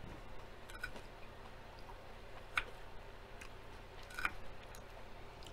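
A person chewing a mouthful of salad with crisp lettuce and tortilla chips, with a few short sharp crunches, the loudest about two and a half and four seconds in.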